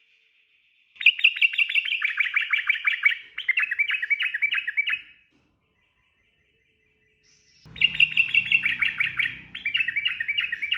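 Sooty-headed bulbul (trucukan) singing its fast, rolling "ropel" song: two bouts of rapidly repeated bubbly notes, each about four seconds long, with a pause of about two seconds between. A low rumble runs under the second bout.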